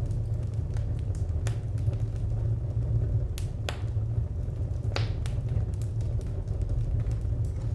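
Wood fire crackling, with scattered sharp pops over a steady low rumble; two louder pops come about halfway through.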